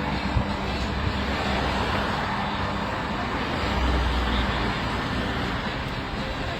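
A motor vehicle engine rumbling close by, growing louder about four seconds in, over a steady outdoor traffic din.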